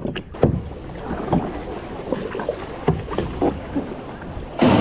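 Kayak paddle blades dipping and splashing in sea water in irregular strokes, with a louder rush of water near the end.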